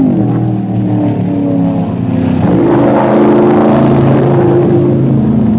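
Racing car engines running at speed, holding steady pitch. About two and a half seconds in, the sound swells as a car passes close, then settles.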